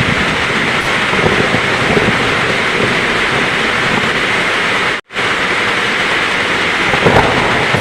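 Heavy rain pouring steadily, with low thunder rumbling under it. The sound cuts out completely for a split second about five seconds in.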